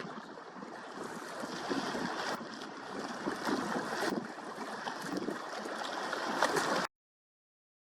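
Steady rushing outdoor noise of wind and water, with a few faint clicks; it cuts off suddenly near the end into silence.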